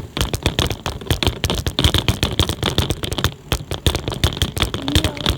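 Bicycle and its handlebar-mounted phone holder rattling and knocking rapidly and irregularly as the bike rolls over a bumpy surface.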